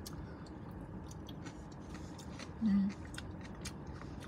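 Close-up chewing of a mouthful of poke bowl, with many small wet clicks of the mouth, and a short hummed "mm" about two and a half seconds in.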